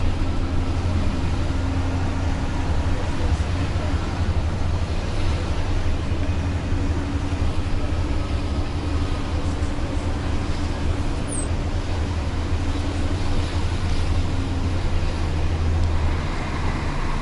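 Bus engine running steadily with road and tyre noise, heard from inside the passenger cabin: a low, even drone with no sudden changes.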